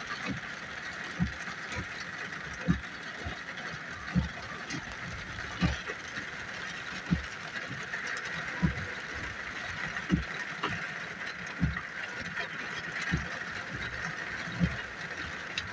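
Heavy rain falling steadily, a continuous hiss, with a low thump repeating evenly about every one and a half seconds.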